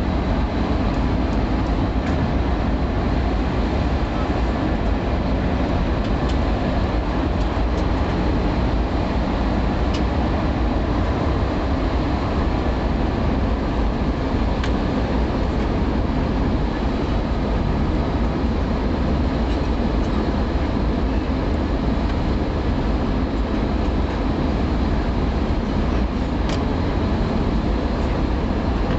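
Steady cabin noise inside a jet airliner in flight: engine and airflow noise running evenly, strongest in the low range.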